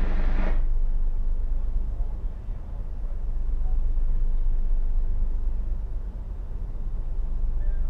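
Tugboat's diesel engines running with a steady low drone.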